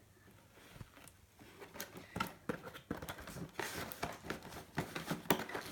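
Plastic toy packaging being handled: a run of small clicks, taps and light rustles that starts about a second and a half in and grows busier towards the end.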